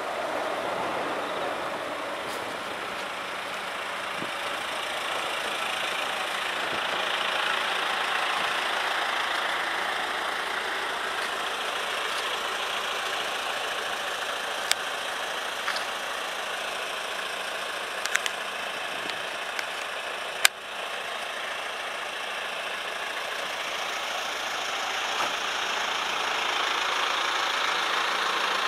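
A vehicle on the move in heavy rain, heard from inside: a steady rushing noise of rain and wet road that swells and eases slowly, with a few sharp clicks in the second half.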